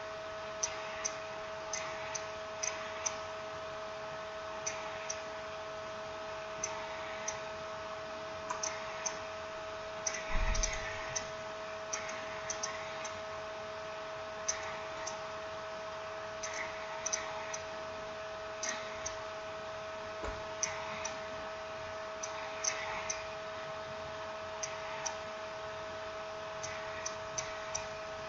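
Irregular small clicks and ticks of smartphone parts and small tools being handled during the reassembly of a Nokia Lumia 930, with one heavier knock about ten seconds in. A steady electrical hum runs underneath.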